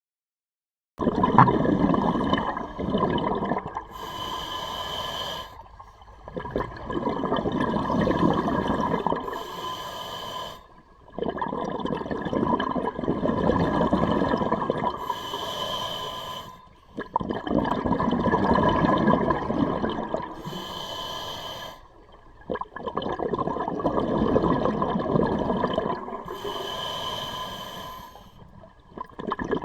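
A scuba diver breathing through a regulator underwater: a short hissing breath in alternating with a longer bubbling rumble of breath out, about five breaths in a slow, even rhythm, starting about a second in.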